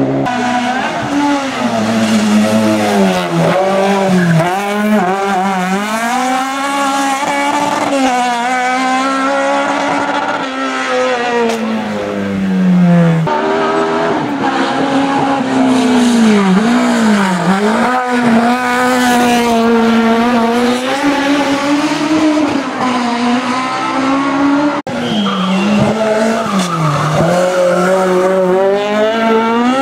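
Hillclimb race car engine at full throttle, revving high and dropping sharply again and again as the driver lifts and shifts through the corners.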